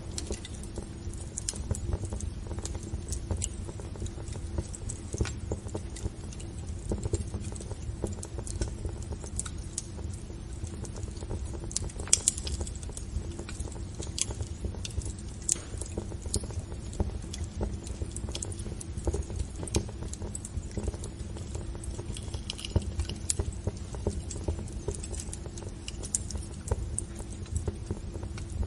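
Wood fire in a fireplace crackling and popping irregularly, with sharp pops scattered throughout over a steady low rumble.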